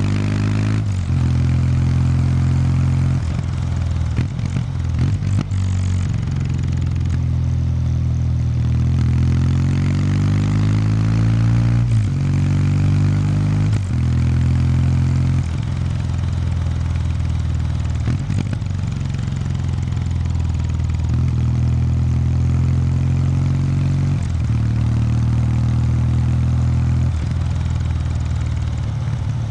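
Exhaust note of a Kawasaki W800 Street's air-cooled parallel-twin engine through its stock exhaust, running at low to moderate revs. The pitch rises and falls every few seconds as the throttle is opened and closed, with a few short clicks about five seconds in.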